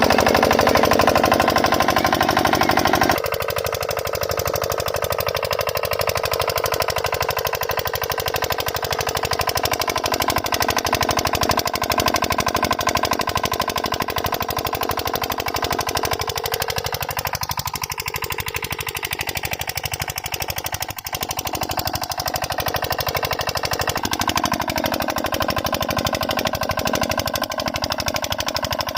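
Single-cylinder 8 HP diesel engine driving a water pump, running with a fast, even chugging beat. About three seconds in its note drops and it becomes a little quieter, then it runs on steadily.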